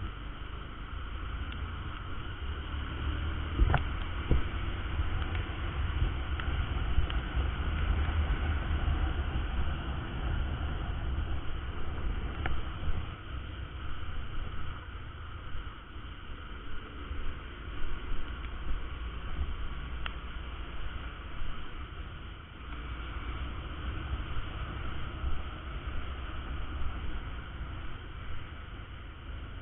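Honda Verza 150 motorcycle riding, heard from a helmet-mounted camera: a steady low rumble of engine and wind buffeting the microphone, easing a little partway through.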